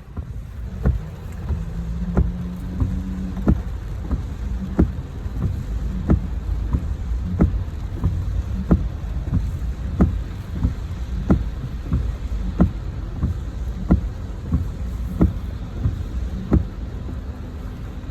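A vehicle's low, steady rumble with a sharp click repeating evenly about one and a half times a second.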